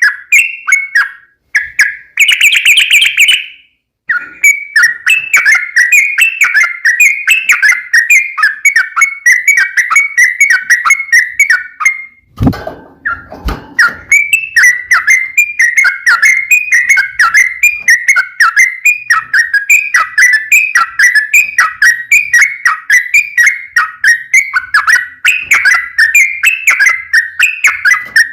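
Yellow-vented bulbul (trucukan) singing a long, rapid run of chirping whistled notes, several a second, without pause. About two seconds in comes a brief harsher, buzzier call, and around the middle there are a couple of low thumps.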